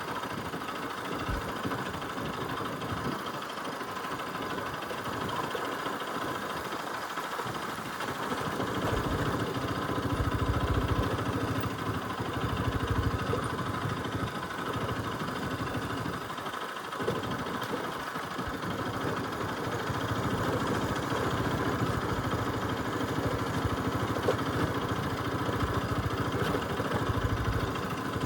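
Bajaj Pulsar RS200's single-cylinder engine running at low, steady revs on a rough dirt trail. It gets louder about nine seconds in and eases off briefly a little past the middle.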